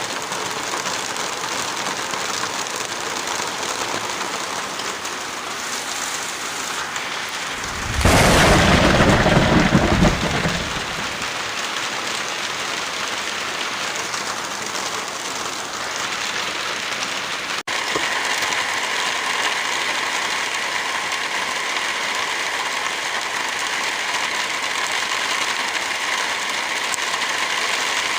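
Steady heavy rain with a loud, deep clap of thunder lasting about two seconds, a third of the way in. A little past halfway the rain cuts out for an instant, then carries on slightly louder and hissier.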